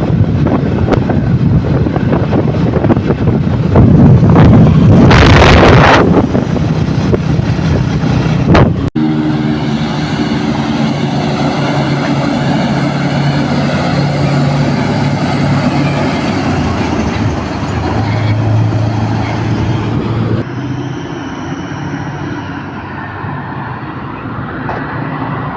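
Scania V8 truck engine running, buried under heavy wind noise on the microphone for the first several seconds, with a short loud hiss about five seconds in. The sound cuts abruptly about nine seconds in to a clearer, steady engine note, and drops in level again near twenty seconds.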